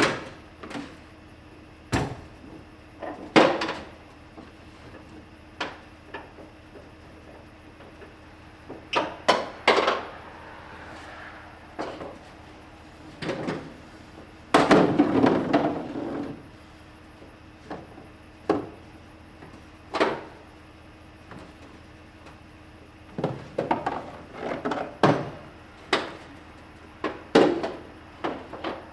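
Irregular knocks, bumps and scrapes of a fiberglass canoe being handled and slid out of a pickup truck, with a longer scraping rumble about halfway through and a quick run of knocks near the end.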